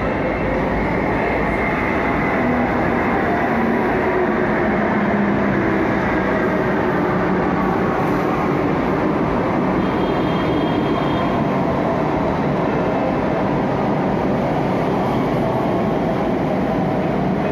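Kolkata Metro train, rake MR-309, running through the station with a steady loud rumble of wheels and motors.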